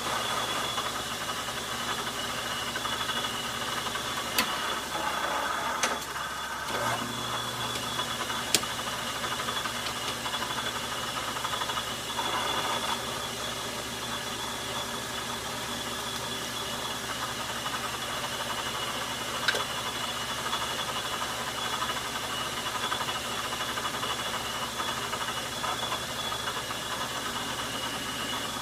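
Logan metal lathe running steadily under a turning cut, its tool bit taking the outside diameter of a spindle nut down, with a few sharp clicks along the way.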